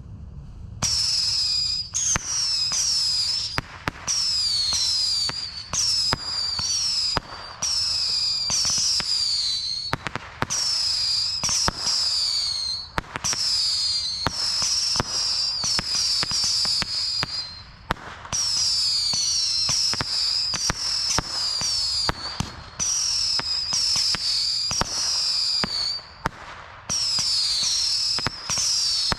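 Several extra large Roman candles with whistling tails firing together from a stand, shot after shot. Each shot is a high whistle that falls in pitch, with sharp bangs and cracks among the whistles, and short gaps about ten and eighteen seconds in.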